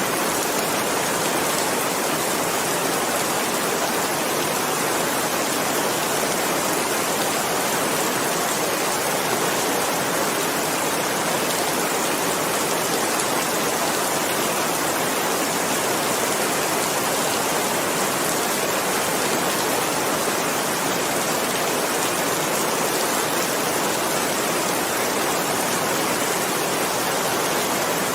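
Steady, even rain falling as a dense hiss of drops, with no single drops standing out.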